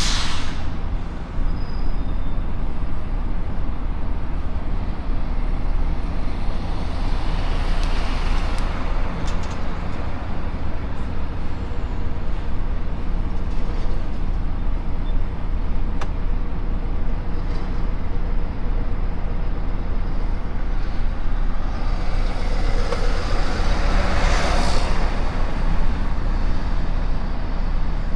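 Heavy truck running with a steady low engine and road rumble. Two rushes of noise swell and fade, about eight seconds in and again near twenty-four seconds.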